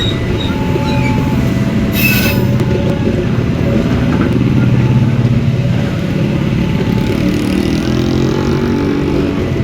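A train passing, with a steady loud rumble of its engine and wheels on the rails. A brief sharp screech comes about two seconds in, and a rising engine tone near the end.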